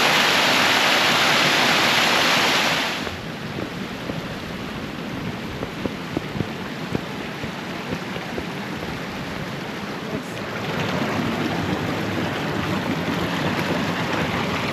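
Rushing water of a waterfall, steady and loud, cutting off abruptly about three seconds in. After that, quieter outdoor noise with scattered small knocks, swelling a little near the end.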